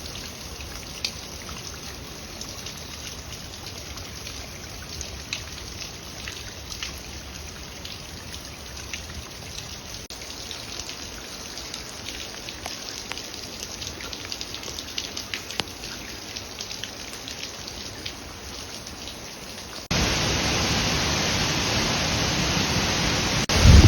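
Water dripping and trickling, with many small scattered drops over a quiet steady hiss. About twenty seconds in, it changes abruptly to a much louder, steady rush of falling water.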